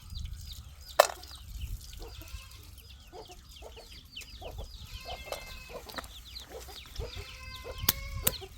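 Chickens clucking, with many short high chirps throughout and a few louder calls later on. A sharp knock about a second in.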